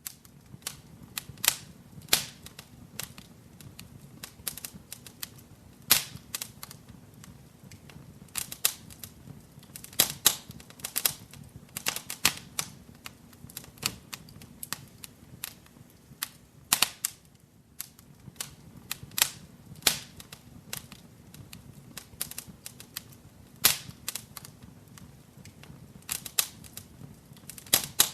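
Wood fire crackling in a fireplace: irregular sharp pops and snaps, a few each second at uneven spacing, over a faint low hiss of burning.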